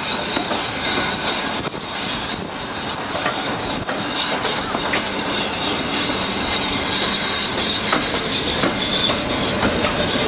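Heritage railway carriages rolling slowly along the track, heard from a coach window: a steady rumble of wheels on rail with irregular clicks over the rail joints and a faint high squeal from the wheels in the second half.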